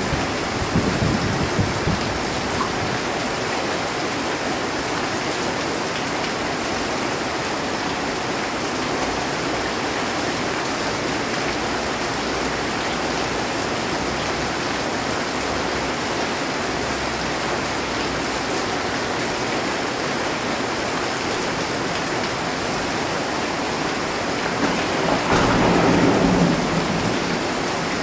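Heavy rain falling steadily on a metal roof, with a short low rumble of thunder at the start and a louder rumble of thunder swelling and fading near the end.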